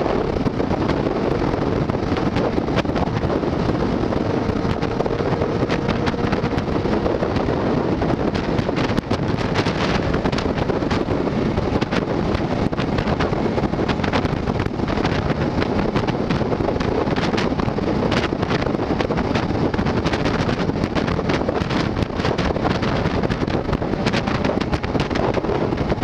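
Steady, loud wind rush buffeting the camera microphone, with a vehicle's running noise beneath it and a faint steady hum during the first several seconds.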